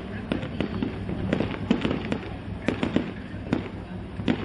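Aerial firework shells bursting in quick, irregular succession: a string of sharp bangs and crackles over a steady low background rumble.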